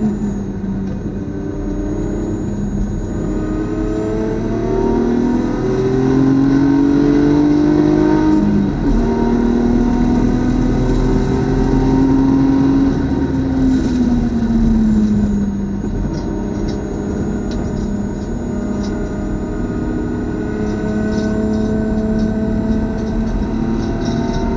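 BMW race car's engine under hard acceleration, revving up, with a drop in revs about eight seconds in like an upshift. It holds high revs, winds down over a couple of seconds past the middle, then climbs again near the end.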